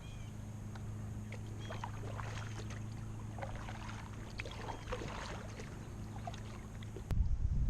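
Kayak paddling on a river: light, irregular splashes and drips of water from the paddle strokes. Near the end a sudden, much louder low rumble cuts in.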